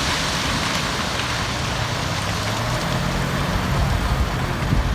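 Dump truck engine running steadily under load while it works to raise a grossly overloaded bed, with a constant rushing noise over it.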